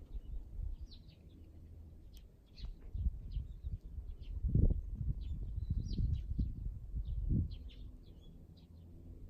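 Small birds chirping in short, repeated calls, over an uneven low rumble that swells louder about halfway through and again near the end.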